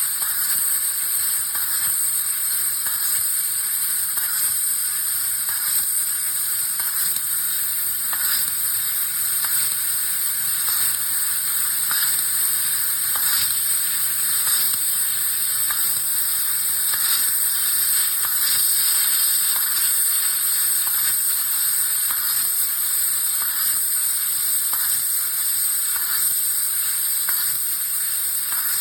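A 5000 W fibre laser cutting 3 mm 304 stainless steel with a compressed-air assist jet. It makes a steady, high-pitched hissing sizzle as the air blows molten metal out of the cut, with fine crackling ticks throughout.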